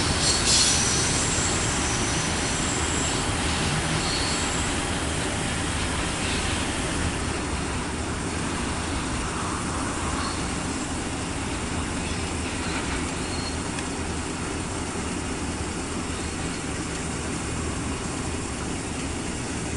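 Loaded coal hopper cars of a CSX freight train rolling over the rails, with a steady wheel rumble and a few thin, high wheel squeals in the first few seconds. The noise eases slowly as the rear of the train moves away.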